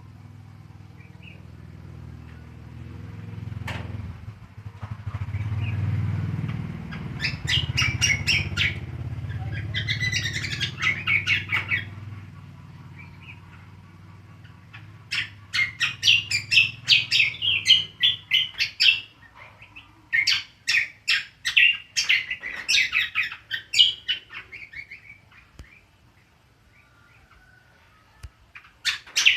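Cucak kombo, a green leafbird, giving its 'ngriwik' song: several bursts of rapid, high, chattering notes separated by short pauses. A low rumble runs under the first half and fades out about midway.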